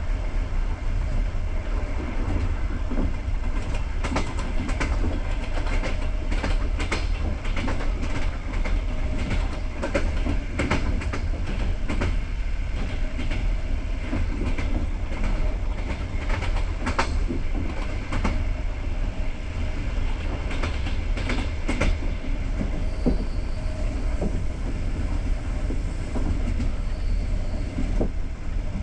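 Passenger train carriage rolling on the rails: a steady low rumble with irregular sharp clacks of the wheels over rail joints.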